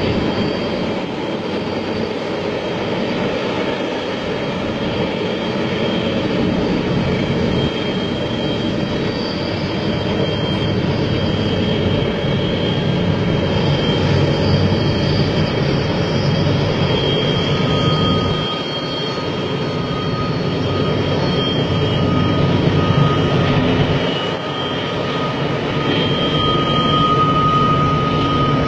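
A long train rolling past: a continuous heavy rumble of wheels on track, with thin high squealing tones that come and go over it and a steadier one in the last stretch.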